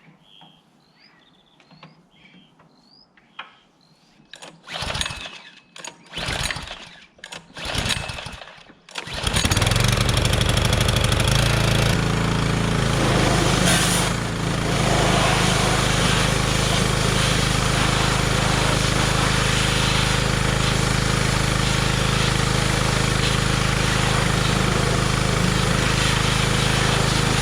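An engine is turned over in four short attempts, catches about nine seconds in, and then runs steadily. Birds chirp faintly at the start.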